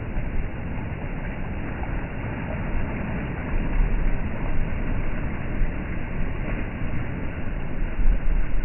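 Sea waves washing, a steady low rushing noise that swells about four seconds in and again near the end.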